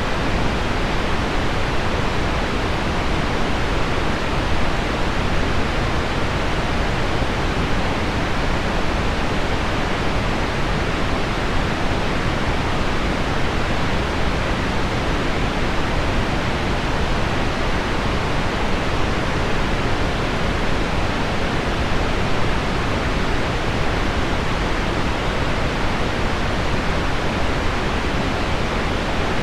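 Heavy rain on window glass mixed with low pink noise: a steady, even hiss that does not change.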